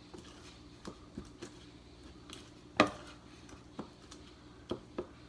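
A utensil stirring slime mixture in a bowl, knocking and clinking against the sides in scattered taps, with one louder knock a little before the middle; the slime is just starting to come together.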